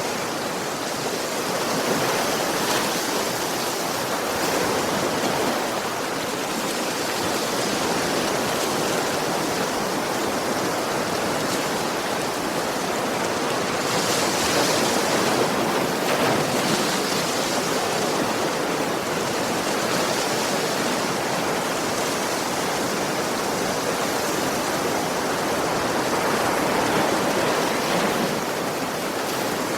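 Ocean waves breaking and washing on a beach, a steady rush of surf that swells and eases every few seconds, loudest about halfway through.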